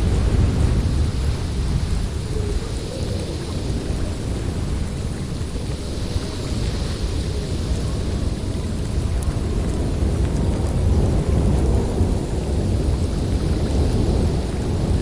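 Blizzard wind blowing in gusts: a deep, steady rumble with a higher hiss that swells and eases.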